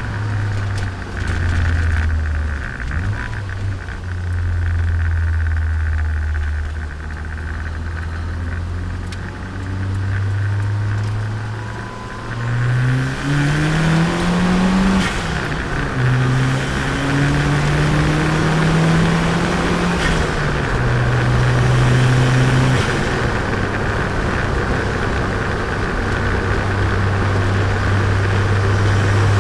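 Turbocharged Nissan Micra engine and exhaust while driving: a low steady note at first, then two rising pulls under acceleration, each ending in a drop in pitch at a gear change, about halfway through and again some five seconds later, before settling back to a steady cruise.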